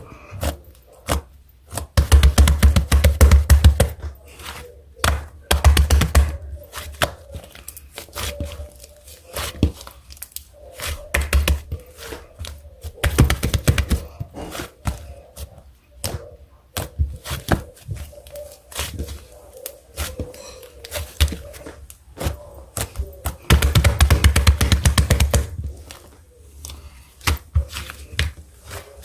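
Close handling sounds from hands working near the microphone: rapid clicks and crackles, with heavier thumps in bursts of a second or two, several times.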